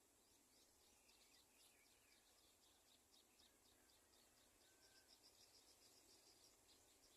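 Faint, high-pitched bird chirps: a series of short repeated notes, about three or four a second, that becomes a quicker, steadier run in the second half.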